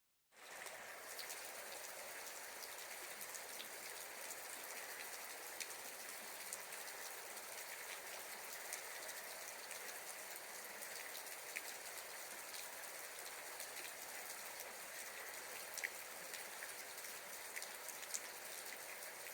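Steady watery hiss with scattered faint ticks, like rain pattering.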